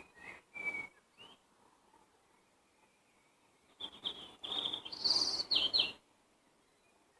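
Wild songbirds singing: a few short, high chirps at the start, then after a pause of about two seconds a quick song phrase of rapid high notes lasting about two seconds.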